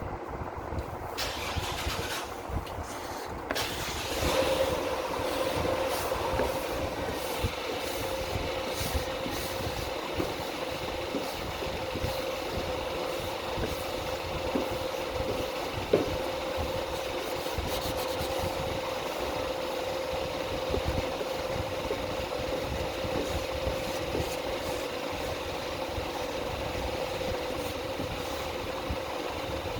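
A car engine starts about four seconds in and then idles steadily.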